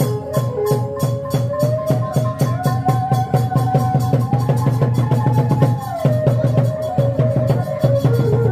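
Khmer chhay-yam drum-dance ensemble music: quick, steady drum and percussion strokes under a held melody line that rises partway through and drops back about six seconds in.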